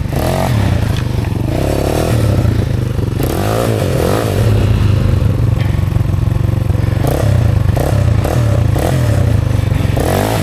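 Off-road motorcycle engine revving up and down repeatedly as it is ridden over an obstacle, its pitch rising and falling several times.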